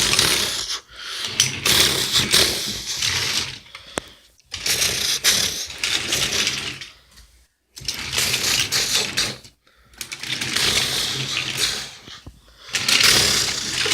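Die-cast Hot Wheels toy cars rattling and clattering against each other and a hard surface as they are pushed and knocked together, in about six bursts of a second to three seconds with short pauses between.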